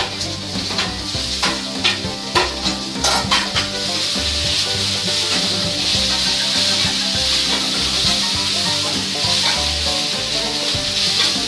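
Onions, garlic, green chillies and tomatoes frying in hot mustard oil in a pan, with a steady sizzle. A few sharp clicks and scrapes come in the first few seconds as the tomatoes go in and the pan is stirred with a spatula.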